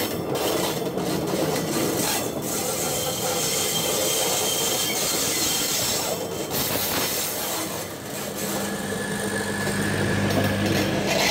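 Minangkabau Express diesel multiple-unit train rolling past at close range, its wheels rumbling and clicking on the rails. A thin high wheel squeal sounds for a while, and a low steady hum comes in about two-thirds of the way through.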